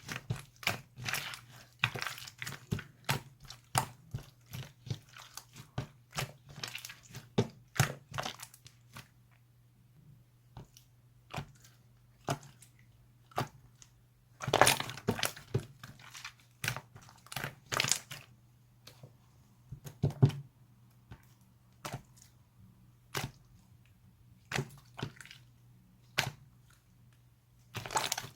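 Slime being squished and pressed by hand, giving irregular runs of wet clicks, crackles and pops. The crackling is dense at first, thins out for a few seconds, then comes back louder around the middle and again near the end.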